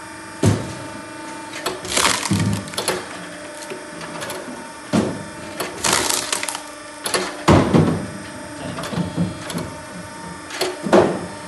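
Hydraulic firewood splitter (Elagöz MT 055 M) forcing logs apart: several loud sharp cracks of splitting wood, a second or more apart, over the steady hum of the machine.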